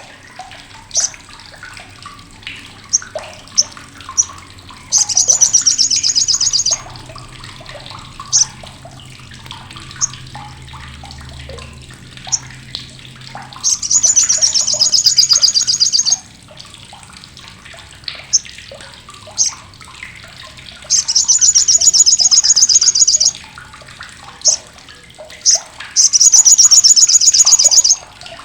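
Sogok ontong (sriganti, olive-backed sunbird) giving its loud, harsh, sharp crecetan chatter. Four rapid high-pitched trills of about two seconds each come roughly five, fourteen, twenty-one and twenty-six seconds in, with short single sharp chirps between them.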